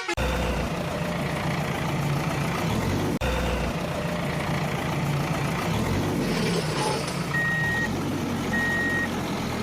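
Heavy truck engine running steadily. About 7 seconds in, the truck's reversing alarm starts beeping, twice, with each beep about half a second long and slightly over a second apart.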